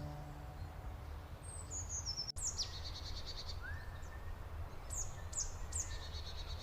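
Songbirds calling: quick downward chirps followed by short trills, one about two seconds in and a run of three near the end, with a rising whistle in between, over a steady low rumble.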